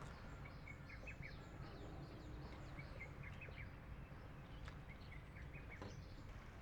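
Small birds chirping, many short high chirps scattered throughout, over a steady low rumble of background noise.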